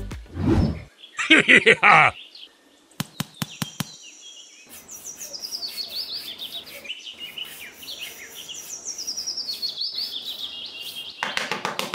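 Birds chirping, with repeated high calls that sweep downward in pitch. A short, loud burst of noise comes about a second in, and a few sharp clicks come around three seconds in.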